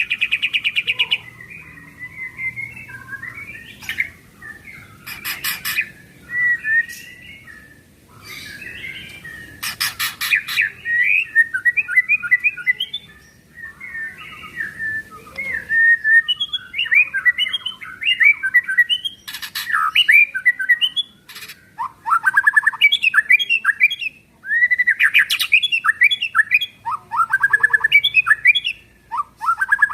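White-rumped shama (murai batu) singing without pause. Varied whistled phrases alternate with harsh, buzzy rattles, the 'kretekan' calls, and runs of quick sweeping notes come in the second half.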